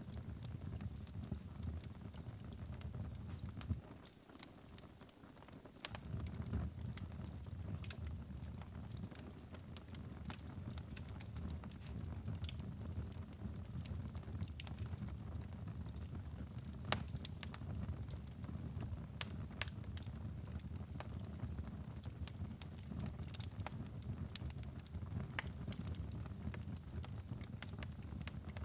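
Wood fire burning in a fireplace: a steady low rumble of flames with scattered sharp crackles and pops. The rumble drops away briefly about four seconds in.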